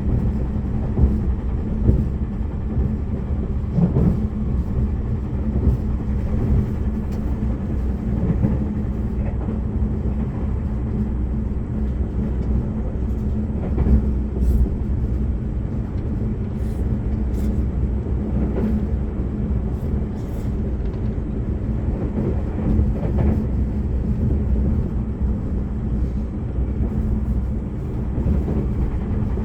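Limited express train running at speed, heard from inside the passenger cabin: a steady low rumble of wheels on rail, with occasional faint clicks from the track.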